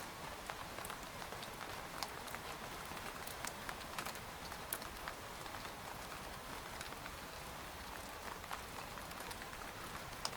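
Rain falling on a tent: a steady hiss of rainfall with many irregular sharp drop hits, a few louder than the rest.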